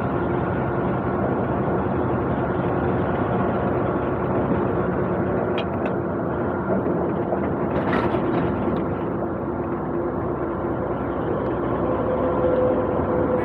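Semi truck running, a steady engine hum and road noise heard from inside the cab, with a couple of faint clicks about six and eight seconds in.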